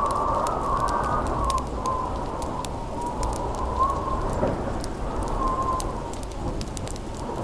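Howling wind whistling with a wavering pitch over a steady rush of rain, with a wood fire crackling in scattered sharp pops.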